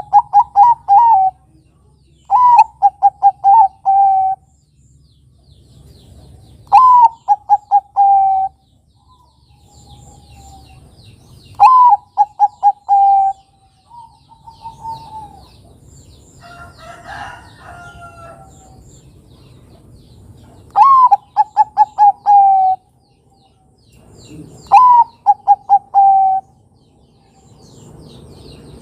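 Zebra dove (perkutut, Bangkok type) singing its cooing song: six phrases, each an opening note followed by a quick run of short coos, with pauses of a few seconds between them. Another bird gives a brief, rougher call around the middle, and faint high chirps sound in the background.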